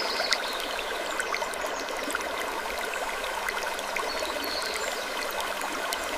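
Steady rushing like flowing water, dotted with small irregular ticks and a few brief faint high creaks.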